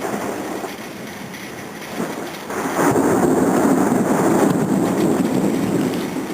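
Thunder rumbling from an overhead storm cell, swelling sharply about two and a half seconds in and staying loud before easing near the end.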